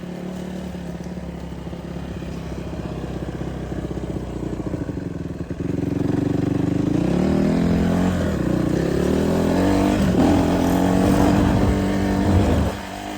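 Dirt bike engine running steadily, then from about six seconds in it gets louder and the revs climb and fall repeatedly as the bike accelerates, before backing off sharply near the end.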